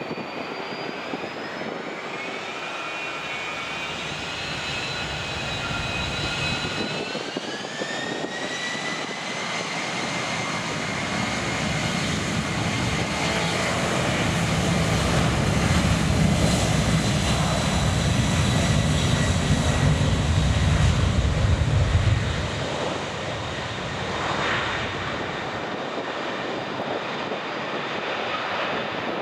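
Jet airliner engines spooling up with a rising whine, then a loud low rumble that builds as they reach takeoff power. The rumble falls away sharply about 22 seconds in, leaving a steadier engine sound.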